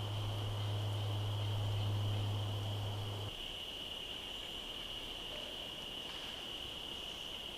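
Steady night chorus of crickets or katydids, one continuous high-pitched drone. A steady low hum sounds under it and cuts off suddenly about three seconds in.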